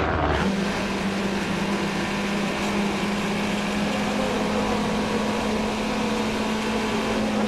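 A steady hum at one constant low pitch over a noisy background, starting just after an abrupt change in the sound.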